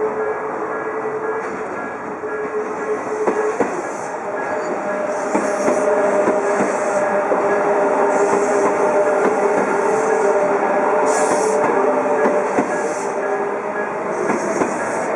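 Odakyu 1000 series electric train passing over a level crossing, wheels clicking over the rail joints, with a steady whine throughout.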